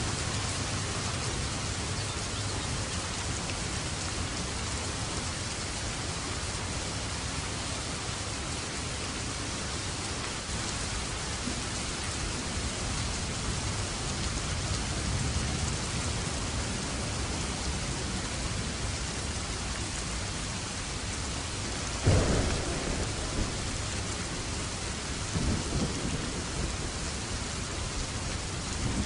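Steady heavy rain falling, with a sharp thunderclap about two-thirds of the way through, followed by low rolling rumbles of thunder.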